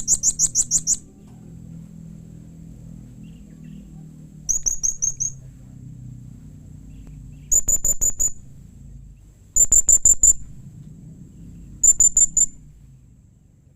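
Blue-crowned hanging parrot (serindit) calling: five bursts of rapid, high-pitched chirps, each about a second long and a few seconds apart, over a faint low hum.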